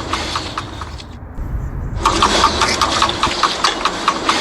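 Japanese pygmy woodpecker pecking at wood, a run of sharp taps at about five a second. It stops briefly about a second in and starts again about a second later.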